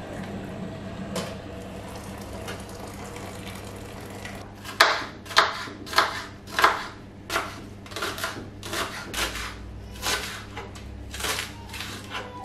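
Food being worked by hand in the kitchen: about a dozen short crunching strokes, roughly two a second, begin a few seconds in over a low steady hum.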